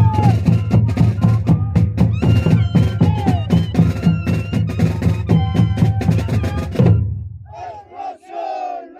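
Moseñada band playing: moseño flutes holding steady notes over rapid, loud bass-drum and snare drumming. The music stops about seven seconds in, and voices shout.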